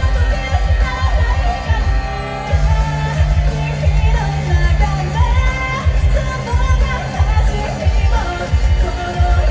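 Band playing a pop-rock song live, with a lead singer over bass and a regular kick-drum beat.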